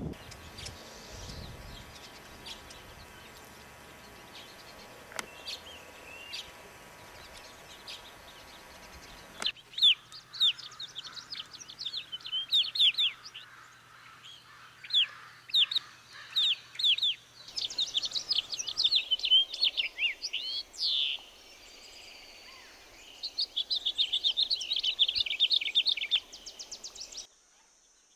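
Wild birds calling: at first faint, then loud, short, sharp chirps repeated in quick series, and near the end a fast, rapid trill.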